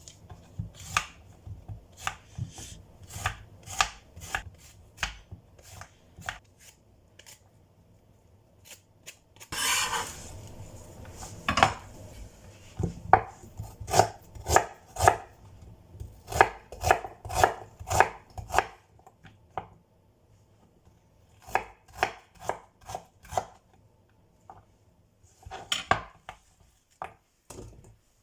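Kitchen knife chopping vegetables on a cutting board, in runs of sharp, even strokes about two or three a second with short pauses between. There is one brief scraping rustle about ten seconds in.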